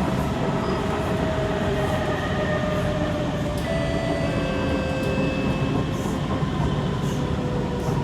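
Inside a Kawasaki C151 metro train: running rumble of the wheels on track under the whine of the traction motors. The whine's tones drift slowly lower, with a shift in the tones about three and a half seconds in.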